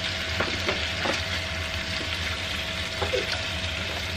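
Chicken breasts sizzling as they sear in a hot skillet, with a few short clicks and scrapes of a utensil against the pan as they are flipped. A low steady hum runs underneath.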